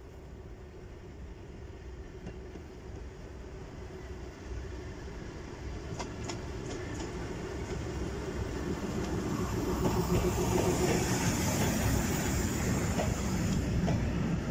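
SM30 diesel shunting locomotive approaching with a train of vintage passenger carriages, growing steadily louder. A few sharp wheel clicks come about six seconds in. From about ten seconds the carriages roll past close by with loud, steady wheel-and-rail noise.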